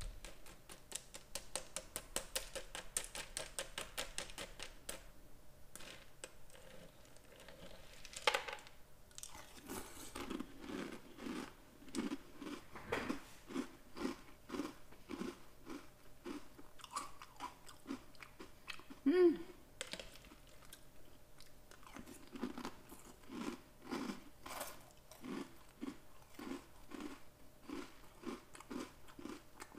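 Close-miked crunching and chewing of Oreo O's chocolate cereal: a fast run of crisp crunches in the first few seconds, then steady chewing about twice a second with scattered crunches.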